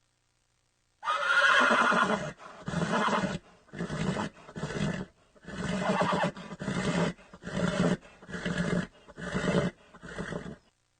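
Horse neighing in a string of about ten short bursts, the first and longest lasting over a second, starting about a second in.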